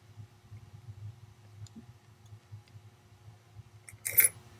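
Small metal clicks of watchmaker's tools working on a mechanical watch movement, with one brief, louder clatter about four seconds in as a part or tool is set down. A faint low hum runs underneath.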